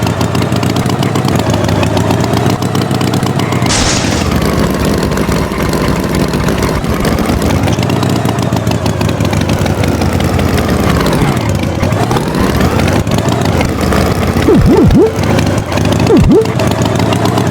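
Engine running, its pitch slowly rising and falling. A sudden louder surge comes about four seconds in, and quick swooping pitch sweeps come twice near the end.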